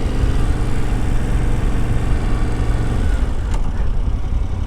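2021 Yamaha Tenere 700's 689 cc parallel-twin engine running steadily while riding. About three seconds in, the engine note drops and changes, and a single sharp click follows shortly after.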